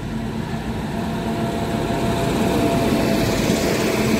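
Indian Railways electric locomotive hauling the Tejas Rajdhani Express passing close by: a rumble of wheels and running gear that grows louder as it arrives, with a steady whine over it.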